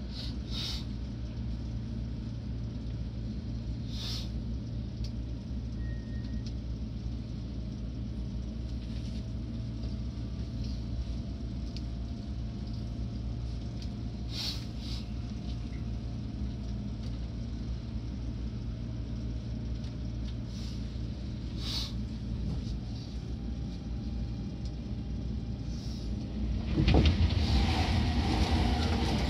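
Interior running noise of a Seibu 6000 series electric train at speed: a steady rumble of wheels on rail with a few sharp clicks. It grows louder about 27 seconds in.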